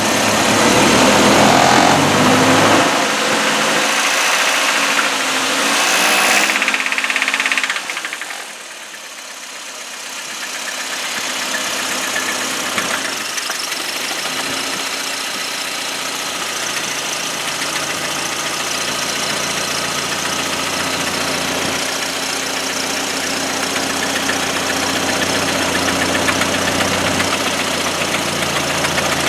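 Toyota 22RE four-cylinder engine running with a knock, the sign of a spun engine bearing after it ran out of oil. It is louder for about the first eight seconds, then drops suddenly and settles into a steady idle.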